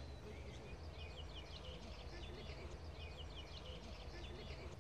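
Faint birdsong: small birds chirping in quick runs of short notes over a steady low rumble of outdoor background noise.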